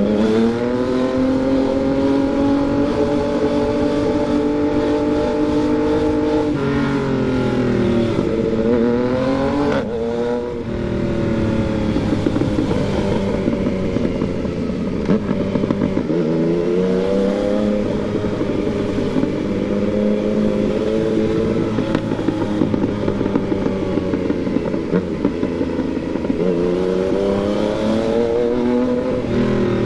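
Yamaha MT-09's inline three-cylinder engine under way. Its revs climb and fall several times as it is ridden, with a sudden drop in pitch about ten seconds in.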